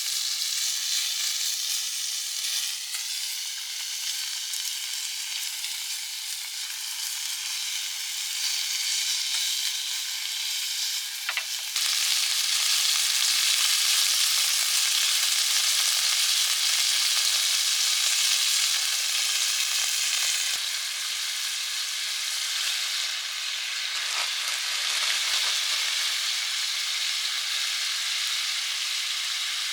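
Fillet meat sizzling in a hot pan: a steady frying hiss that gets louder about twelve seconds in and eases back some eight seconds later.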